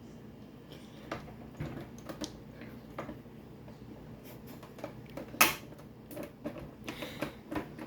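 Irregular light clicks and knocks from the plastic case of a Sharp VZ-1500 boombox being worked apart by hand at its hidden hooks, with the sharpest click about five and a half seconds in.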